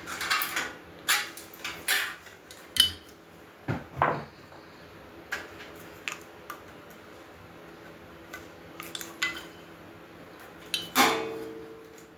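Metal grill parts clanking and rattling as they are handled and fitted together during assembly, in a series of irregular knocks. The loudest clank comes near the end and rings briefly.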